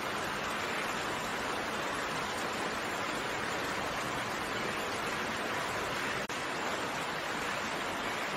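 Steady rainfall, an even hiss of raindrops with no separate drips standing out, with a momentary dip in level about six seconds in.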